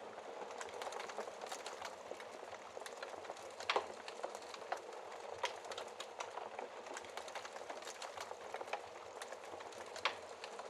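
Wood fire burning in a fireplace, crackling: a steady soft hiss of flames under frequent small pops and ticks, with two louder snaps, one about four seconds in and one near the end.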